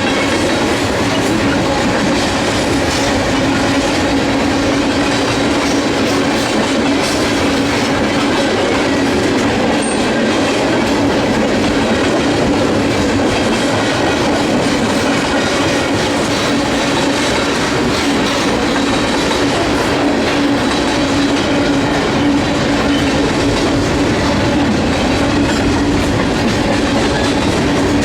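Freight train cars rolling past on the rails: steady wheel-and-rail clatter with a constant low hum running through it.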